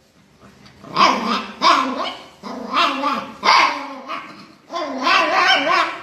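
A dog barking and vocalizing in a series of short calls with wavering pitch, starting about a second in.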